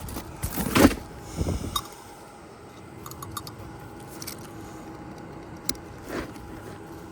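Utility knife scraping and cutting through asphalt shingle, with a few strokes in the first two seconds. After that it goes quieter, with a faint steady hum, a sharp click, and another short scrape.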